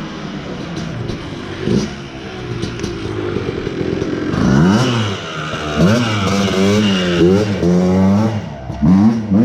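Small single-cylinder off-road engine running, then revving up and down repeatedly from about halfway through.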